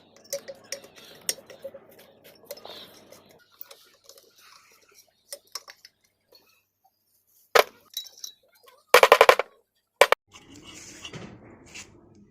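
Metal parts and tools clinking and knocking during engine work, with a single loud knock, then a quick run of about six loud knocks, then one more.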